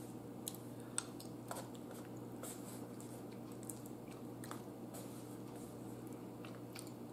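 Faint chewing of baked chicken, with a few soft, scattered clicks.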